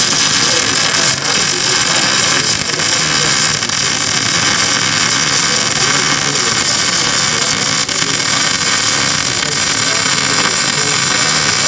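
Welding equipment running with a steady, loud hiss, strongest in the upper range, with a few faint clicks.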